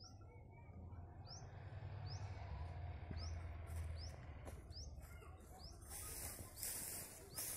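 A small bird calling over and over, a short high upward-sweeping chirp repeated about every second, over a low rumble. About six seconds in, a rough rustling hiss comes in beneath the chirps.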